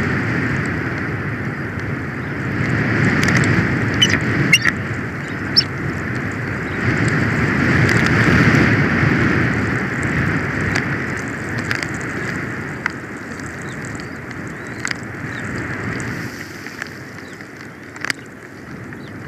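Snowstorm wind gusting against an outdoor camera microphone: a steady rush that swells and eases, with a few sharp ticks and clicks.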